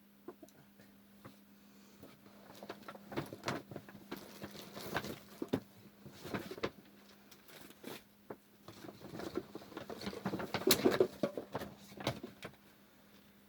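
Irregular rustling and light knocks, as of things being handled and moved about, in two busy stretches over a steady low electrical hum.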